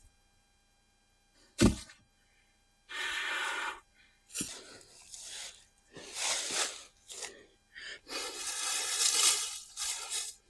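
A person breathing hard in short, loud, noisy breaths, with one sharp thump about one and a half seconds in. No chainsaw is running.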